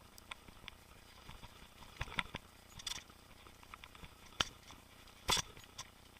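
Boardman mountain bike rattling over a rough trail: scattered light clicks with a few sharper knocks, the loudest about five seconds in.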